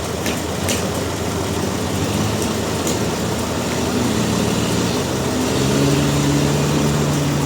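A large engine running steadily amid mechanical noise, its hum growing stronger and steadier over the last two seconds. A few sharp ticks sound in the first three seconds.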